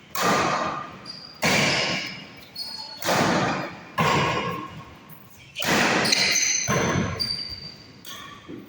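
Badminton rally: a racket strikes the shuttlecock five times, about one to one and a half seconds apart, each sharp hit followed by the echo of a large hall.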